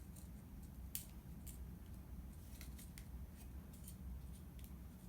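Scattered light clicks and rustles from a beaded wire-and-paper bird ornament being handled, the sharpest click about a second in, over a low steady hum.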